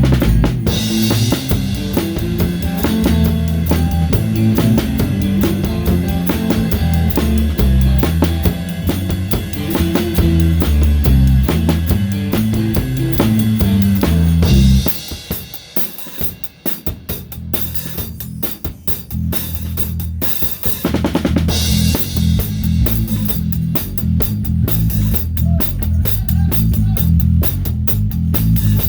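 Live rock band playing, the drum kit loudest: a Pearl kit whose snare is damped with a towel, close to the microphone. About halfway through the band drops back to a quieter break for several seconds, then comes back in full with busy drumming.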